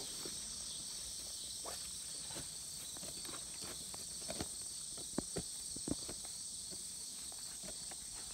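Steady high-pitched insect buzz from the grass, with scattered soft clicks and rustles.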